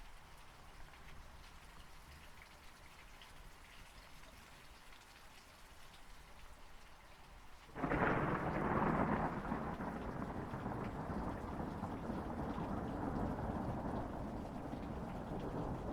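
Thunderstorm: a faint steady patter of rain, then about halfway a sudden clap of thunder that rolls on as a long rumble over the rain.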